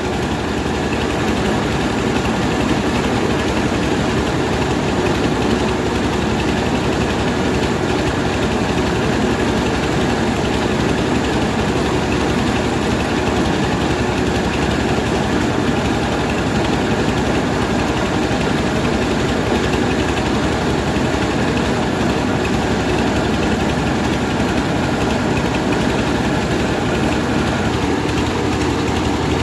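Rice milling machine running steadily: an even, unchanging mechanical drone.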